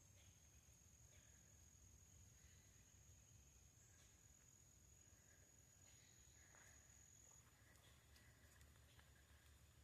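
Near silence: faint swamp ambience, with a steady high-pitched insect trill that stops about seven seconds in and a few faint short chirps.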